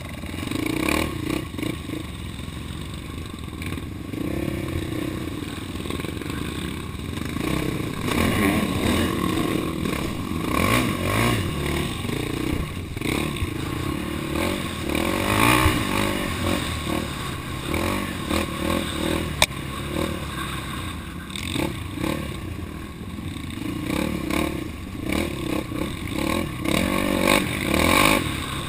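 Off-road vehicle engine running on a dirt trail, its revs rising and falling, with clattering and scraping from the ride over rough ground and a sharp knock about two-thirds of the way through.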